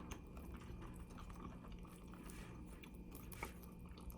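Faint close-up chewing of fried chicken wings: soft, scattered crunches and mouth clicks, with one slightly sharper crunch about three and a half seconds in.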